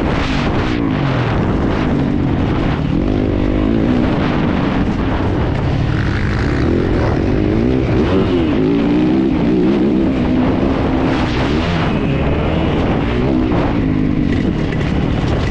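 Yamaha YZ450F's 450 cc single-cylinder four-stroke motocross engine, loud and under load, its pitch rising and falling repeatedly as the rider works the throttle and gears around the track.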